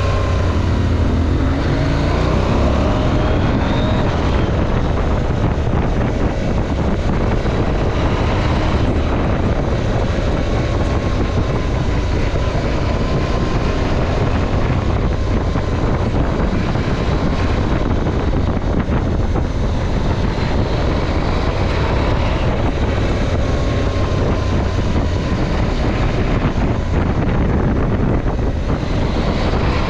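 KTM 790 Adventure's parallel-twin engine running under way, its pitch rising in the first few seconds and then rising and falling with the throttle, with wind rushing over the camera microphone.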